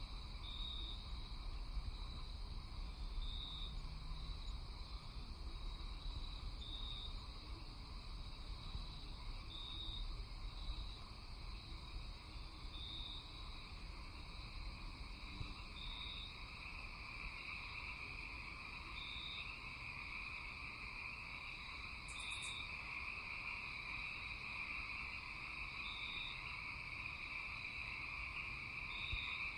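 Night chorus of insects and frogs: a steady high trilling that swells about halfway through, with a short, higher note repeating roughly every three seconds.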